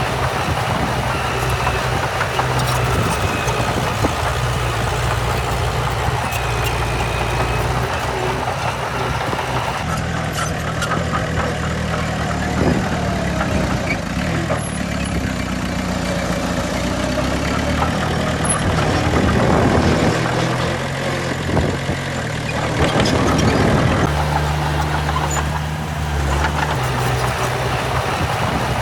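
Heavy diesel engines of earthmoving machinery running steadily. In the middle stretch the revs rise and fall as the machine works.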